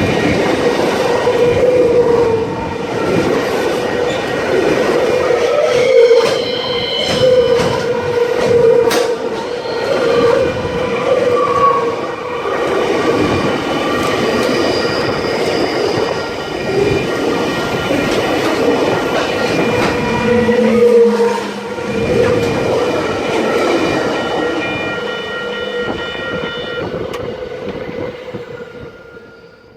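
Train passing at high speed: loud, steady running noise with several steady whining tones, fading away over the last few seconds.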